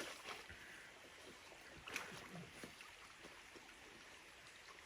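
Near silence: faint outdoor background hiss with a few soft clicks, near the start and around two seconds in.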